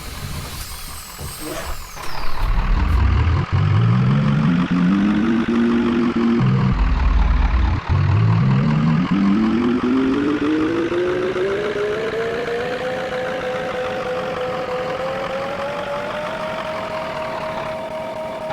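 Electric tram's traction motors whining as it accelerates, the pitch rising twice: a short climb, a brief break with a low rumble about six seconds in, then a longer climb that levels off near the end.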